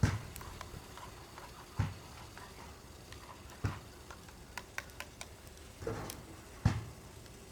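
Wood fire crackling in a metal campfire stand: scattered sharp pops and clicks, with a few heavier knocks spread through.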